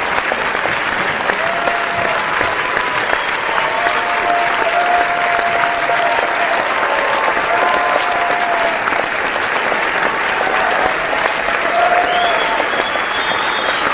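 A large crowd applauding: dense, steady clapping that neither swells nor fades, with a few brief drawn-out cheers rising above it now and then.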